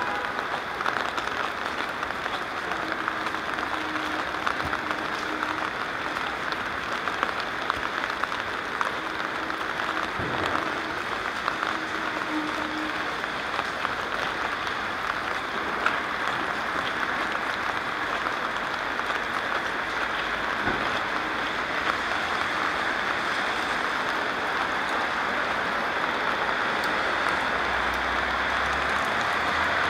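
Steady rain falling on wet streets and pavement: an even patter made of many small drop ticks.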